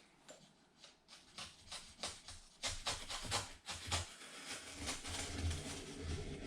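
Hand-cutting a thin strip off the edge of a piece of ductwork material: a run of sharp cutting strokes, about two or three a second, then a steadier rough rubbing noise near the end.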